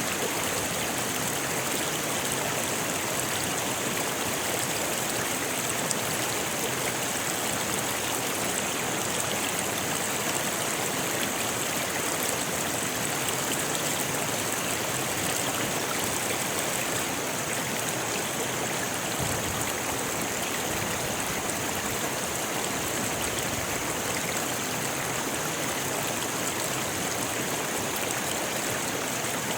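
A rocky river rushing and splashing over stones, a steady, unbroken wash of water.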